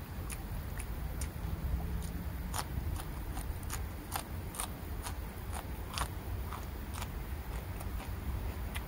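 Close-up chewing of raw yard-long bean, with irregular crisp crunches a few times a second over a steady low rumble.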